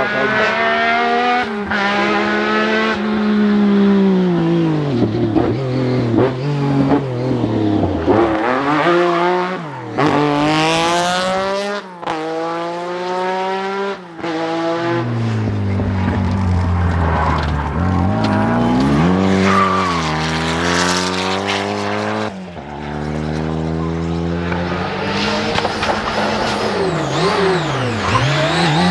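Rally car engines revving hard and running up and down through the gears as cars pass, their pitch repeatedly climbing and dropping. The sound changes abruptly several times as one car gives way to another.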